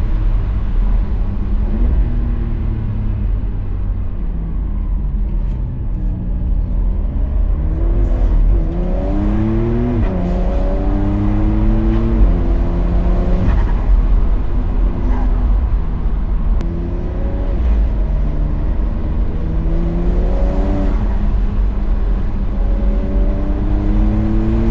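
Porsche 992.2 Carrera's twin-turbo flat-six pulling through the gears: the engine note climbs, drops at each shift and climbs again, several times over, above a steady low rumble.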